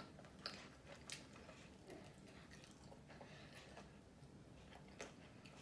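Near silence with a few faint, scattered clicks and smacks of someone chewing KFC fried chicken.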